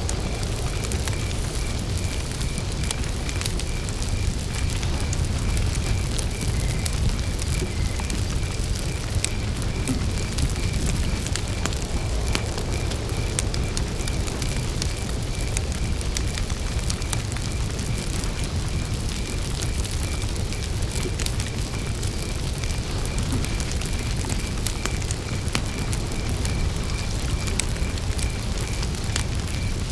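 Wood campfire burning with a steady low rumble and scattered crackles and pops, over a cricket chirping in an even, repeating pulse.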